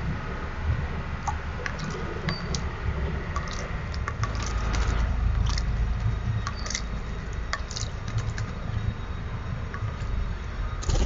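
A bird bathing in a garden birdbath: many short, irregular splashes and flicks of water, over a low rumble.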